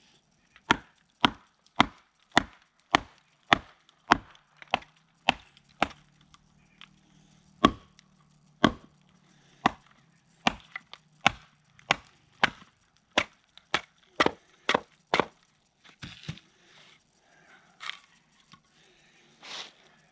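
Sharp, wooden knocks, about two a second, as a fixed-blade knife is beaten through a piece of green wood to split it. The knocks thin out to a few scattered, lighter ones after about 15 seconds, as the blade comes through.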